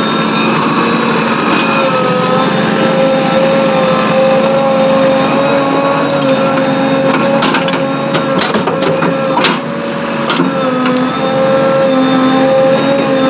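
A small motor running steadily with a whine that wavers slightly in pitch, with a few sharp clicks around the middle.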